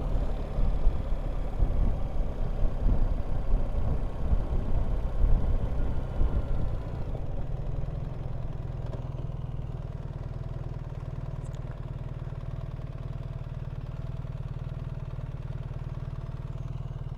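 BMW R1300GS boxer-twin engine running while riding, with uneven wind rumble on the microphone, then settling into a steady idle about seven seconds in as the bike comes to a stop.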